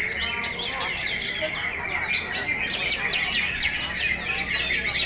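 Several caged green leafbirds (cucak hijau) singing at once in fast, overlapping runs of high chirps and sweeping whistled notes, with no break between them.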